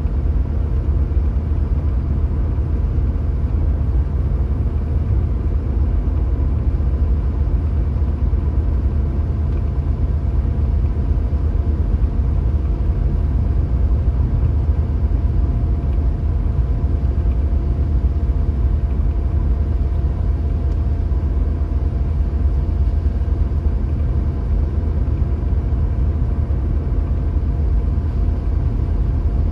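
A car driving along at a steady pace: a constant low rumble of engine and road noise, with a couple of faint steady tones over it.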